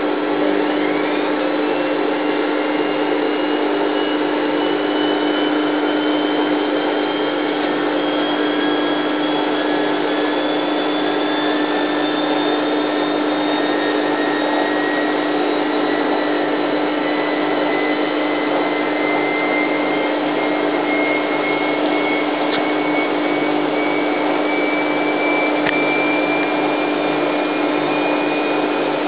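Hoover Time Manager H130E washing machine in its spin, the drum turning with a steady hum and a motor whine that climbs slowly in pitch as the spin speed builds.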